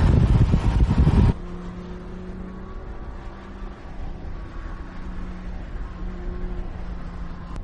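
BMW M1's straight-six engine and road noise running loud as the car drives at speed, cutting off abruptly a little over a second in. It gives way to a quieter, steady engine hum holding one pitch.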